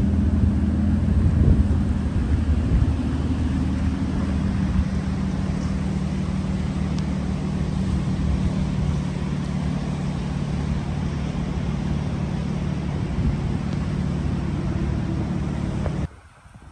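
Car engine idling steadily under an even hiss of falling rain; it all cuts off suddenly near the end.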